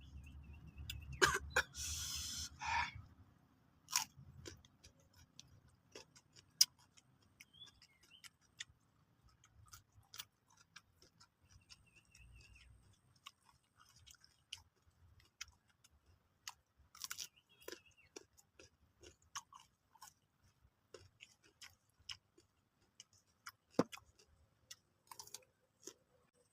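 A person chewing crunchy raw papaya with spicy rujak sauce close to the microphone. There are crisp crunches about a second to three seconds in, then scattered short clicks of chewing.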